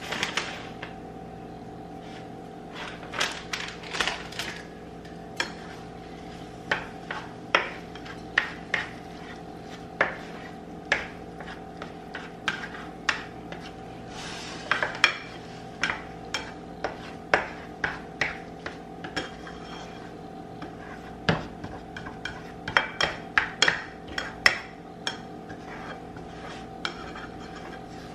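A utensil stirring and scrambling eggs in a frying pan, scraping and knocking against the pan in irregular clicks about once or twice a second, over a steady hum.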